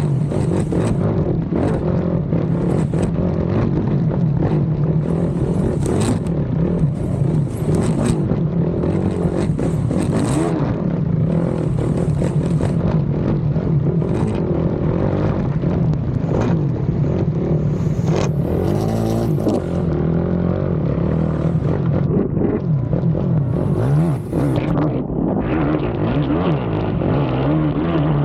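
Racing ATV's engine running hard, its pitch rising and falling as the throttle is worked over rough cross-country track, with frequent clattering knocks from the quad, plus one clear drop and climb in engine pitch about two-thirds of the way through.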